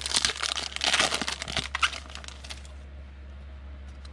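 Foil wrapper of a football trading-card hobby pack being torn open and crinkled, the crackling stopping about two and a half seconds in. A steady low hum runs underneath.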